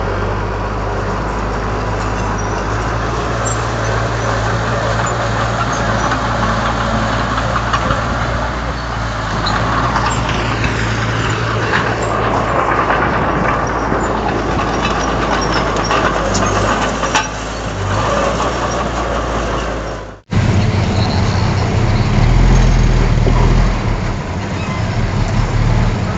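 Diesel engine of a Komatsu D31 bulldozer running steadily under load. About twenty seconds in the sound cuts out for an instant and comes back with a deeper, stronger engine note.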